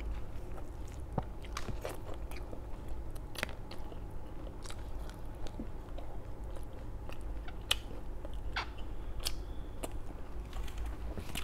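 A person chewing close to the microphone, with irregular crisp crunches of fried food scattered throughout.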